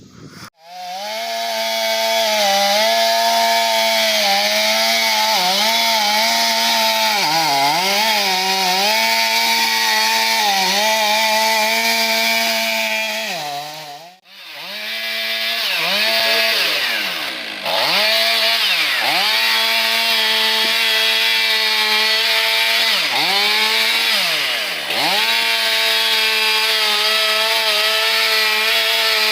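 Chainsaw running at full throttle through the final felling cuts in a large elm trunk, its pitch dipping again and again as the chain bogs in the wood. About halfway through it drops away for a moment, then comes back, revving up and down between cuts.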